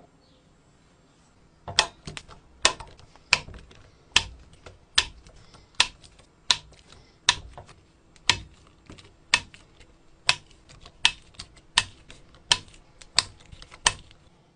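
Small custom-built engine running slowly, with a sharp mechanical clack about every three-quarters of a second and lighter ticks between. It starts about two seconds in and stops shortly before the end.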